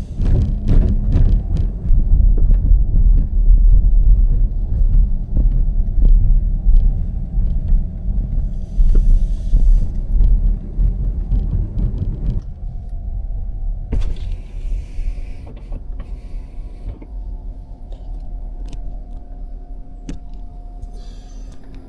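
Car driving along a road, with loud low road and tyre rumble and scattered knocks and rattles; about halfway through the rumble drops sharply and the car runs on more quietly.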